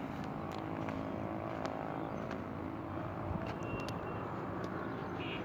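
Steady engine hum, even in level throughout, with a few faint clicks.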